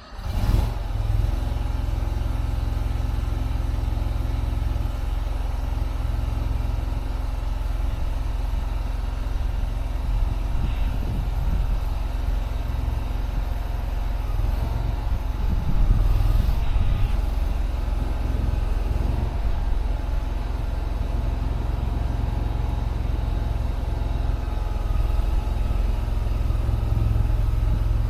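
A mini skid steer's engine starts up and then runs steadily with a low, even engine note as the machine works. The level rises briefly about sixteen seconds in.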